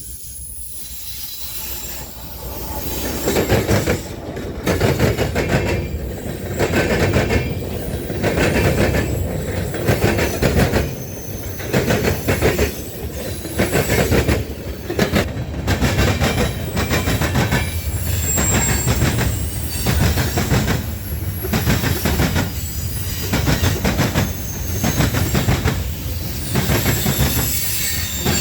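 A train rolling past, its wheels clacking rhythmically over the rail joints, with occasional high wheel squeal. The sound builds over the first few seconds and then stays loud.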